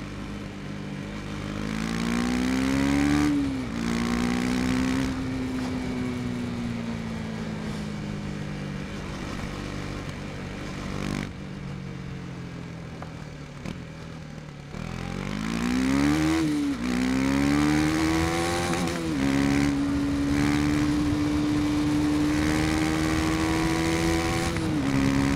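KTM 250 Duke's single-cylinder engine under way, heard from the rider's seat. Its pitch climbs under throttle and drops at an upshift about three seconds in, then eases and cruises. It climbs again past the middle with two quick upshifts, then holds a steady cruise, dipping slightly near the end.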